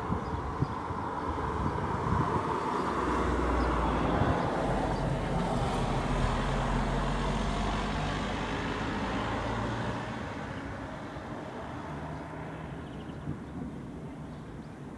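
Rolling thunder: a deep rumble that swells over a few seconds and slowly dies away after about ten seconds.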